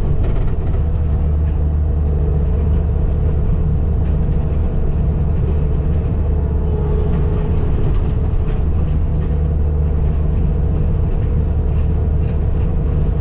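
Skid steer engine running steadily under work, a constant deep rumble with a faint steady whine above it.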